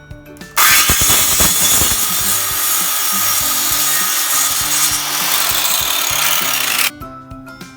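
Power tool abrading rust from a metal gate, a steady harsh rasping that starts abruptly about half a second in and cuts off about a second before the end.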